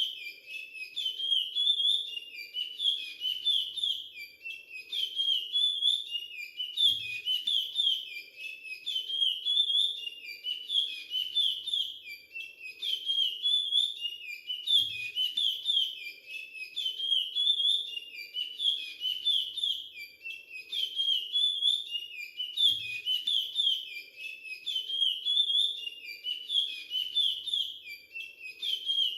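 A young chestnut-bellied seed finch (curió) singing its song over and over, a fast string of whistled chirps repeated with a short break about every four seconds, in the Timbira 'virado clássico' song dialect.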